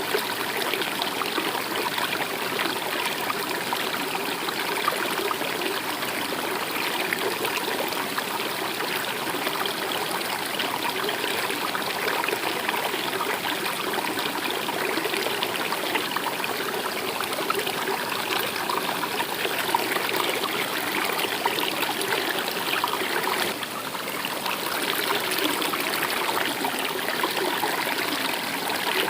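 A stream flowing with a steady trickling rush of water.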